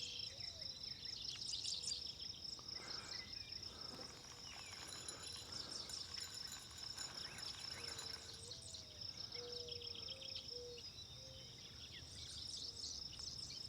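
Insects trilling in a steady, pulsing high-pitched chorus, with scattered bird chirps and a few short whistled calls.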